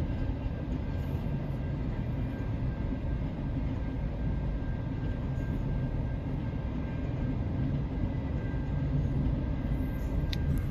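Double-stack container freight train rolling past: a steady rumble of wheels on the rails, with a short sharp click near the end.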